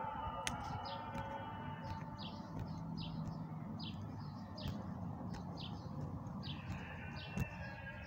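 A bird chirping repeatedly: short high chirps about twice a second, over a steady low background rumble.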